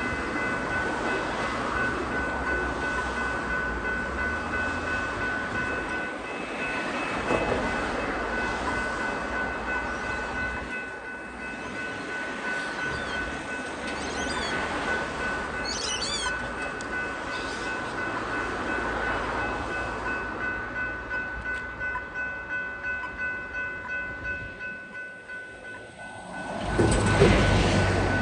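A train running through a level crossing with the crossing's electronic bell ringing, over the rumble and clatter of the train. Near the end comes a sudden louder rush, the loudest moment.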